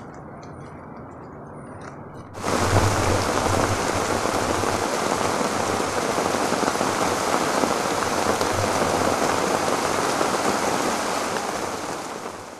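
Heavy tropical downpour on a lake and the surrounding foliage: a quieter hiss of rain for the first two seconds or so, then the rain comes in suddenly loud and dense, holding steady before fading out near the end.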